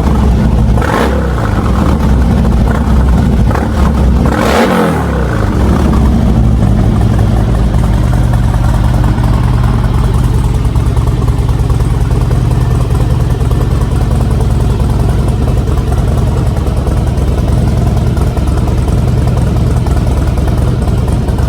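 Harley-Davidson XR1200X V-twin running through a home-made straight-through muffler with a perforated two-chamber insert: revved twice in the first five seconds, then settling into a steady idle.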